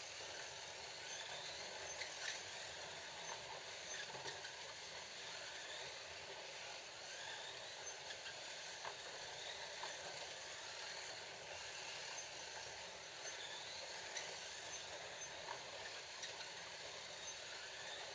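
Scalextric slot cars running laps: a steady whir of small electric motors and guide braids on the track, with faint rising whines as cars accelerate and scattered light clicks.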